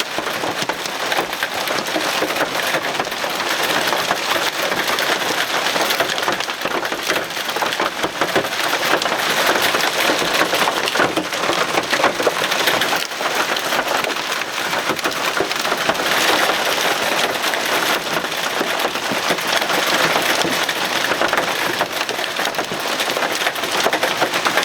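Heavy rain pelting down steadily, a loud, dense patter of countless small impacts during a severe thunderstorm.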